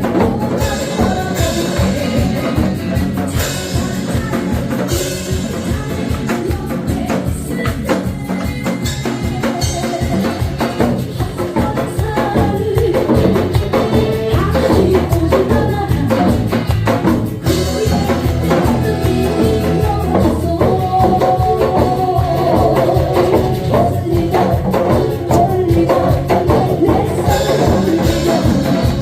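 Janggu hourglass drums beaten in a steady rhythm along with a Korean trot song backing track with singing.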